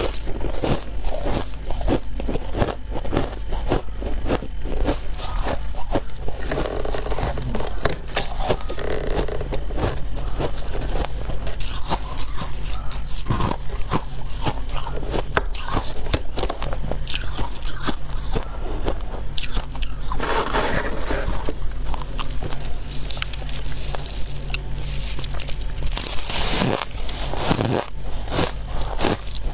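Close-up crunching of freezer frost being bitten and chewed: a dense, irregular run of crisp crunches.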